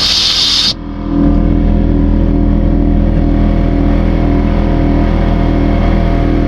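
A steady engine drone runs throughout. At the very start a loud, sharp hiss, like a blast from an aerosol spray can, cuts off under a second in.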